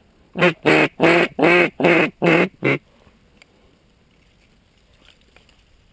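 Seven loud mallard hen quacks in quick succession, all within the first three seconds.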